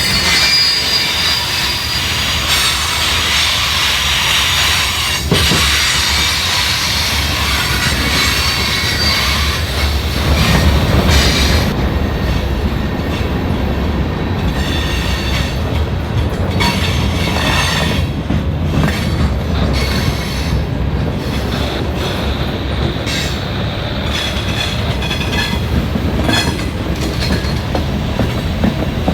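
Railroad train rolling past with its steel wheels squealing in high, whining tones for the first ten seconds or so, over a steady rumble. Later the squeal fades and the wheels click over the rail joints.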